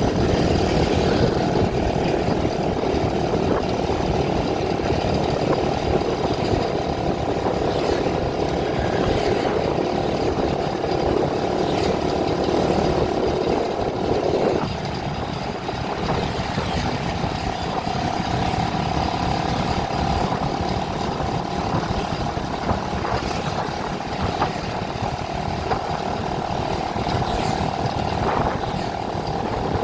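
Vehicle engine and road noise while driving along. About halfway through the engine note drops suddenly, then runs on at a steadier, lower level.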